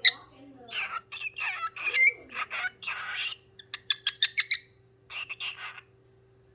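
Pet parrot squawking and chattering in a run of short harsh calls, then a quick string of sharp high chirps about four seconds in; it falls quiet near the end.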